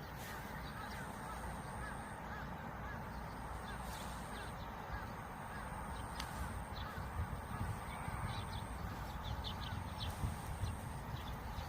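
Birds calling over a steady low rush of wind: many short chirps and calls throughout.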